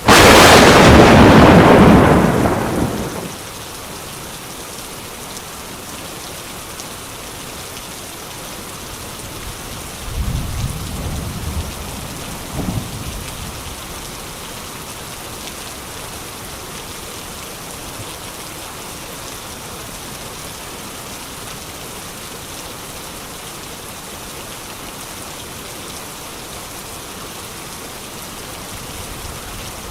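Steady rain falling, cut open at the start by a sudden, very loud close thunderclap that fades into rumbling over about three seconds. About ten seconds in comes a softer, low roll of thunder with a short low clap inside it.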